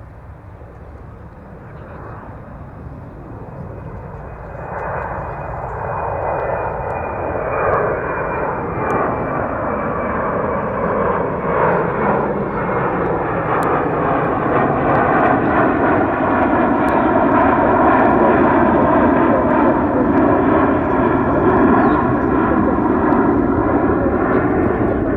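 Jet airliner taking off: engine noise builds over several seconds into a loud, steady roar, with a whine that slowly falls in pitch.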